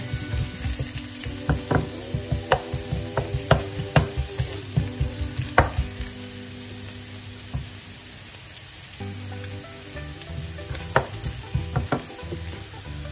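Sliced onion sizzling in hot oil in a nonstick frying pan while a wooden spoon stirs it, knocking against the pan in quick irregular taps. The stirring pauses for a few seconds in the middle, leaving the sizzle alone, and the taps resume near the end.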